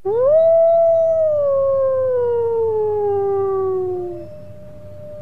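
Wolf howling: one long howl that rises quickly, then slowly falls in pitch and fades out about four seconds in, as a second, fainter howl starts.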